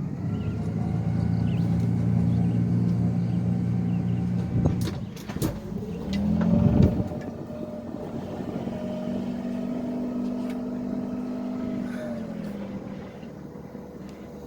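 Small boat's outboard motor running under throttle: it picks up at the start, eases off with a few knocks about five seconds in, speeds up again and holds, then throttles back near the end.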